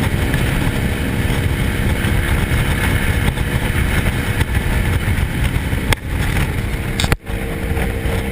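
Motorcycle running steadily on the road, engine and road noise loud and constant. Two short clicks and a brief dropout come about six to seven seconds in.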